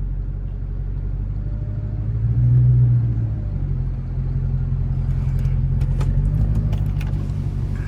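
Chrysler 300's Hemi V8 running at low speed, heard from inside the car. A steady low rumble swells briefly about two and a half seconds in, with a few faint clicks later on.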